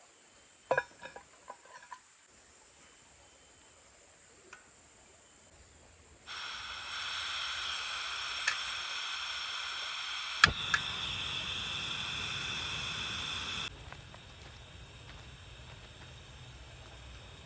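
Portable gas camping stove: a loud steady hiss of gas starts abruptly, a sharp igniter click sounds partway through, and a low rumble of the burning flame follows and keeps going after the hiss cuts off.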